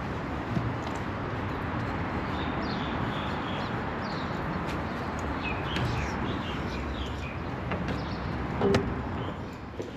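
Small birds chirping in short scattered calls over a steady outdoor background noise, with one sharp knock near the end.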